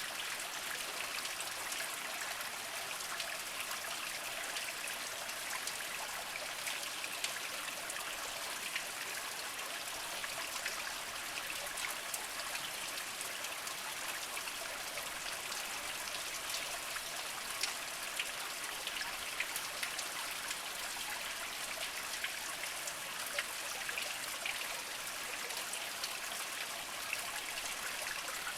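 Small mountain spring trickling and splashing over mossy rocks: a steady water sound dotted with many small drips and plinks.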